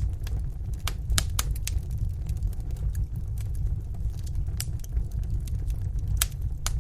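Wood fire burning in a fireplace: a low, steady rumble with sharp crackles and pops. Several pops come close together in the first two seconds, then a few more are spread out later.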